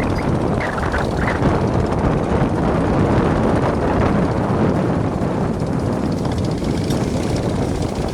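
Motor fishing boat engines running steadily, a loud continuous drone of several boats heading out to sea.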